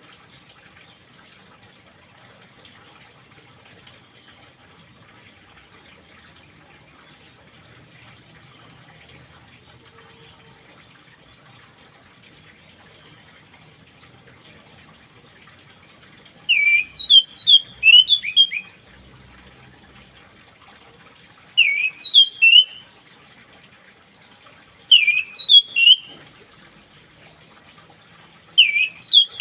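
Orange-headed thrush singing short, loud phrases of quick rising and falling whistles, four phrases in the second half with pauses between them, over a steady trickle of running water.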